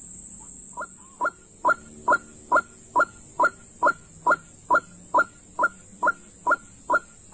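A bird call of short, sharp notes, repeated evenly about twice a second and starting about a second in, over a steady high insect hiss.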